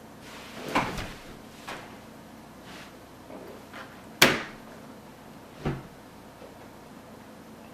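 A handful of separate knocks and thuds: two close together about a second in, a lighter one shortly after, a sharp loud knock about four seconds in, and a duller thud near six seconds.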